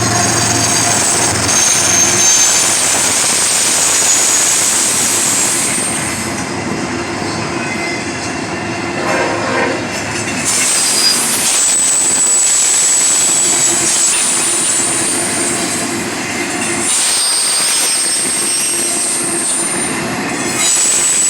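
Norfolk Southern freight train rolling past, a steady rumble of cars on the rails with high, thin wheel squeals that fade out midway and return about ten seconds in.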